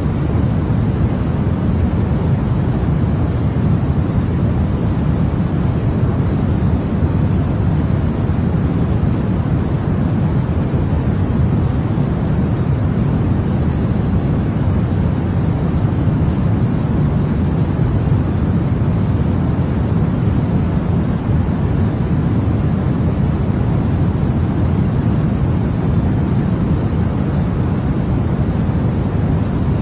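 Continuous sleep-aid white noise: a steady, deep rushing hiss, heaviest in the low end and unchanging throughout.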